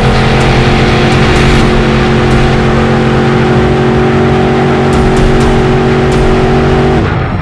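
Monster truck engine running loud at steady high revs, cutting off abruptly near the end.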